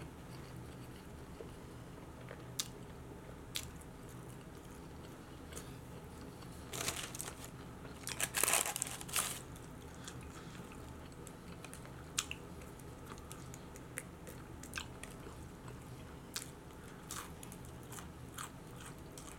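Close-miked chewing and crunching of fried onion rings, with scattered crisp crunches and a louder, denser spell of crunching about seven to nine seconds in.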